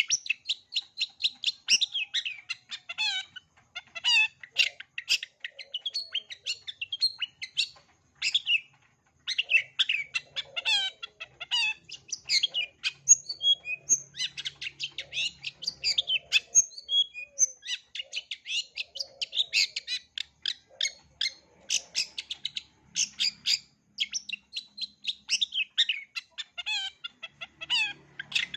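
Long-tailed shrike singing a fast, nearly unbroken stream of short, varied chirps, trills and chattering notes. This is its full song of mimicked notes (isian).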